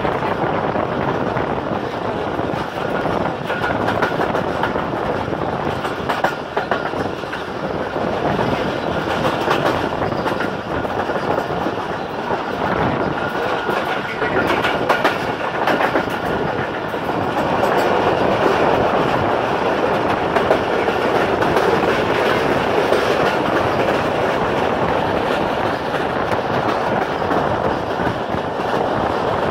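Passenger train coach running at speed, heard from its open doorway: a steady rumble of wheels on the track with clusters of clicks as the wheels pass over rail joints.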